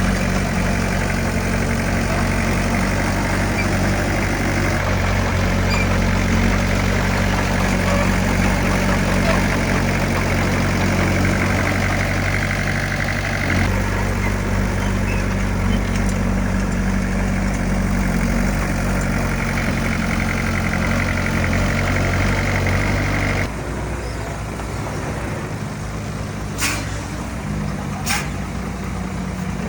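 Heavy earthmoving machine's diesel engine running steadily. About twenty-three seconds in, the sound drops abruptly quieter, and two short, sharp high-pitched sounds follow a second and a half apart.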